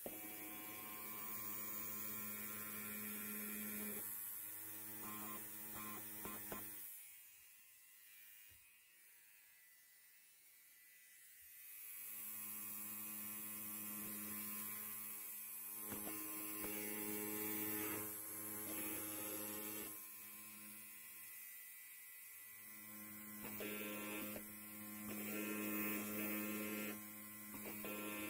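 Electric hair clipper buzzing steadily, a low hum with overtones. It falls much quieter about seven seconds in and comes back up about five seconds later, rising and falling a little in level afterwards.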